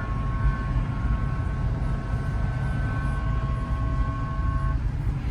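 Steady low rumble of a car's engine and road noise. Over it, a long high tone of several notes held together, siren-like, holds steady and cuts off near the end.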